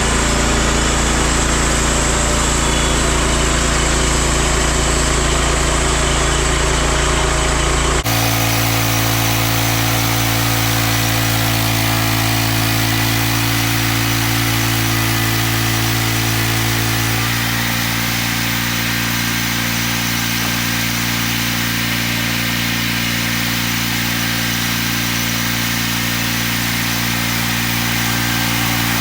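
Engine of a homemade band sawmill running steadily. Its tone changes abruptly about eight seconds in and shifts again, slightly quieter, a little past halfway.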